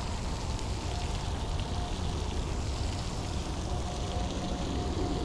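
Light rain and wind noise outdoors: a steady hiss over a low rumble. A faint, thin, steady tone comes in about a second in and again near the end.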